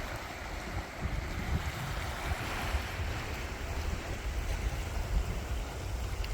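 Sea waves washing on the shore, with gusts of wind buffeting the microphone in an uneven low rumble.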